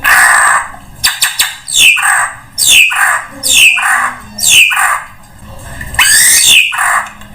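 Drongo lure calls: a harsh rasping call, a few quick clicks about a second in, then a run of repeated calls roughly once a second, each a high downward-sweeping note followed by a lower rasping one, with a longer harsh rising call near the end.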